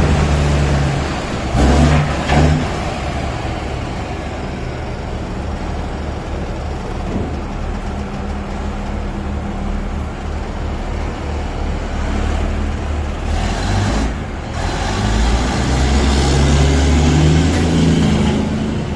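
Dump truck's diesel engine running steadily, with two brief loud noises about two seconds in and another about two-thirds of the way through.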